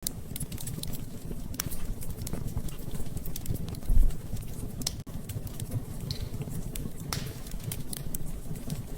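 Wood fire crackling, with irregular sharp snaps and pops over a low rumble of burning flames, and one deeper thud about four seconds in.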